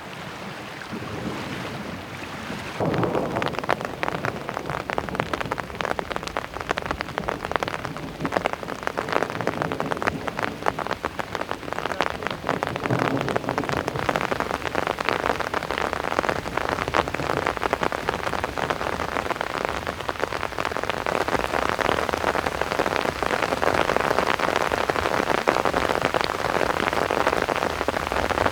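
Rain falling, a dense patter of many drops striking a surface. It gets louder about three seconds in and then stays steady.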